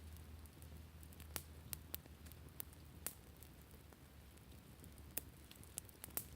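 Wood campfire crackling: irregular sharp pops and snaps of burning wood, about one or two a second, over a faint steady low rumble.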